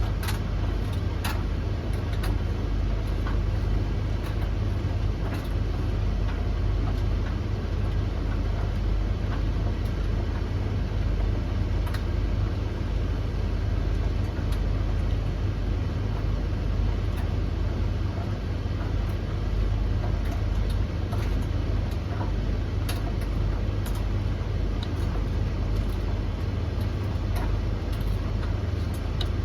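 Three tumble dryers running together: a steady low rumble of turning drums and motors, with occasional light clicks from the loads tumbling.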